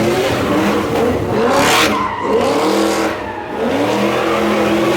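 Car engine revving hard in repeated rising sweeps, tires squealing on the pavement as the car slides, with a sharp burst of hiss about a second and a half in.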